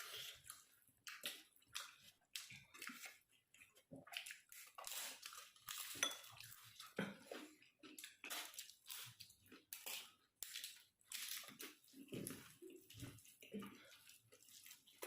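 Faint eating noises: irregular short clinks and scrapes of utensils on a plate, mixed with mouth sounds of eating.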